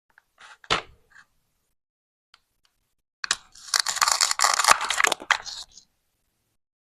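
Plastic toy fruit being handled and cut with a toy knife: a sharp plastic knock under a second in, then about two and a half seconds of crackling, scratchy noise with clicks as the pieces are pulled apart.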